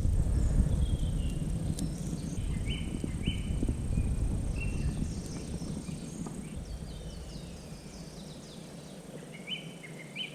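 Forest ambience: a small bird repeating short, clear whistled notes, over a low noise that fades away during the first eight seconds, with a few faint clicks.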